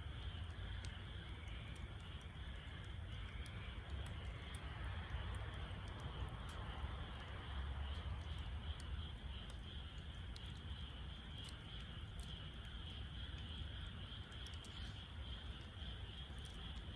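Wood fire in a Snow Peak Takibi-dai L fire pit crackling, with scattered sharp pops, over a steady low rumble. A continuous high trill of insects runs underneath.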